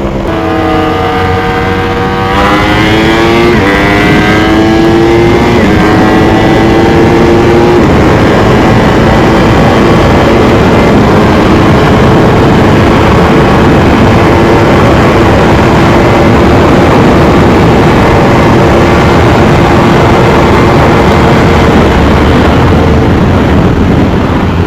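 Sportbike engine accelerating hard, its pitch rising in steps over the first several seconds, then running steadily at high speed under a heavy rush of noise.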